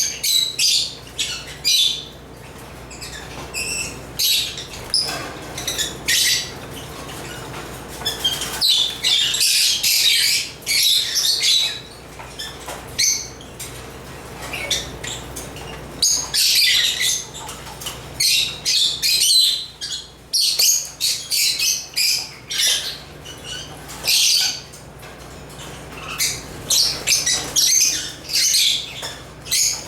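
African lovebirds (Agapornis) chirping and squawking in a busy, overlapping chatter of high-pitched calls, coming in clusters with brief lulls between.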